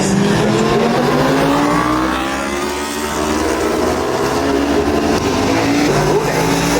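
Several racing superbike engines running hard, their pitch repeatedly rising and falling as they rev and change gear.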